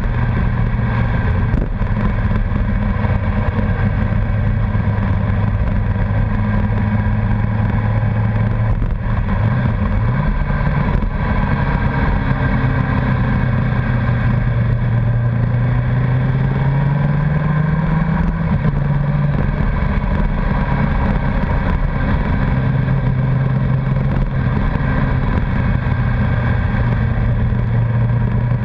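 Honda CBR1100XX Blackbird's inline-four engine running at a steady cruise over wind rush. The engine note wavers about ten seconds in, rises under acceleration a few seconds later, then drops back and holds steady.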